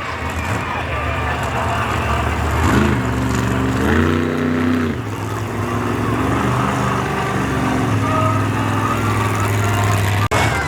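Monster truck engines revving hard, the pitch climbing about three seconds in and dropping back about five seconds in, then running on steadily.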